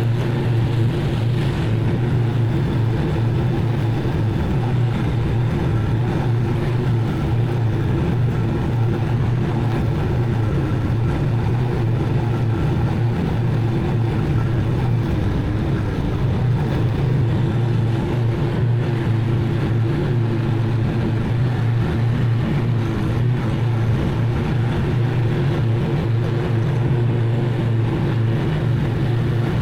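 Zero-turn mower engine running steadily at a constant speed while mowing tall, overgrown grass.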